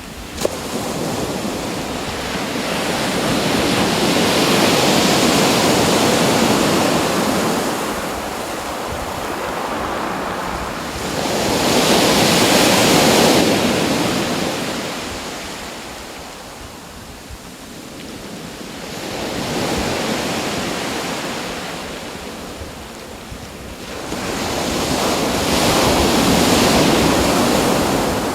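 Waves washing onto a shore: surf noise that swells and falls away in slow surges about every seven seconds.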